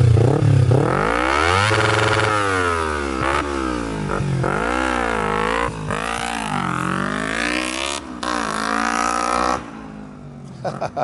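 Kawasaki Ninja 250R parallel-twin, fitted with a stainless 2-into-1 header, megaphone muffler and Dynojet Stage 1 jet kit, revving up and down several times with a loud, raspy exhaust note. The engine sound stops abruptly near the end.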